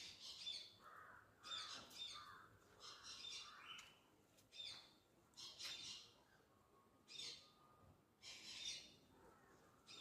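Birds calling outdoors: faint, short high-pitched calls repeated about once a second, with a few lower calls mixed in during the first few seconds.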